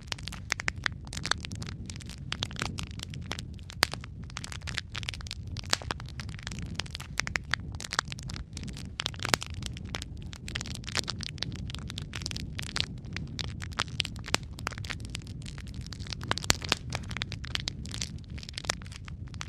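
Log fire burning in a fireplace: a steady low rumble of flames with frequent sharp, irregular crackles and pops from the burning wood.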